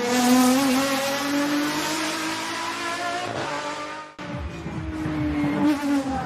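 High-performance car engine running hard at high revs, its pitch easing slightly downward. About four seconds in, an abrupt cut to another car's engine note, with a low, irregular crackle of pops underneath.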